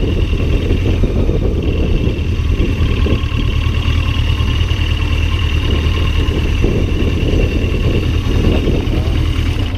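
Yamaha XJ900 motorcycle on the move. Heavy wind buffets the action camera's microphone, which has an open back, and the engine runs steadily underneath. The sound cuts off abruptly at the end.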